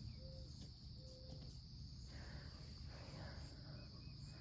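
Crickets chirring as a faint, steady high-pitched chorus.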